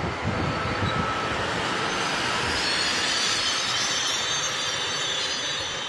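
Double-deck TER 2N NG electric multiple unit rolling past along the platform with a steady rumble of wheels on rail. A thin, high squeal from the wheels grows from about two seconds in.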